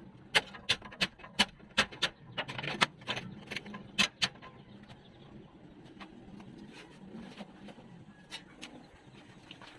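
A quick series of sharp taps or knocks, about two to three a second, thinning out after about four seconds to a few fainter clicks.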